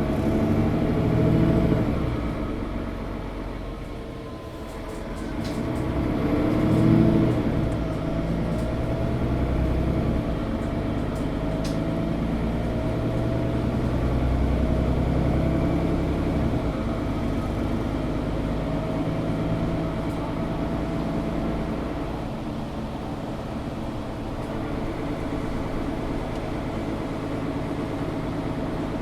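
Engine and drivetrain of a Mercedes-Benz O530 Citaro Facelift G articulated city bus, heard from inside the bus while it is under way. It eases off about four seconds in, then pulls up with rising pitch to its loudest point a few seconds later, and settles into steady running.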